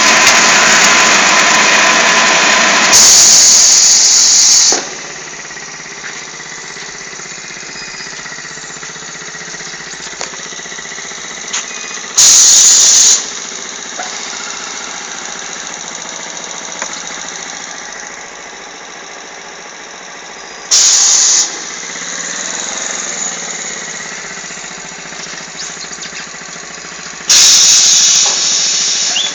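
A motorcycle engine running on a test-bed, loudest in the first three seconds, with four short, loud bursts of hissing spaced several seconds apart.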